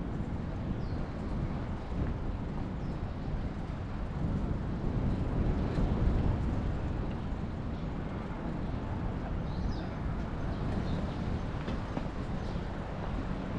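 Steady low rumble of passing vehicles in city streets, heard from a moving bicycle, with a few faint short high chirps.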